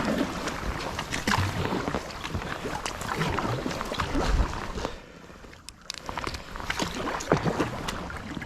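Kayak paddle strokes splashing and dripping in the water, with short sharp splashes over a steady wash of water noise. There is a brief lull about five seconds in.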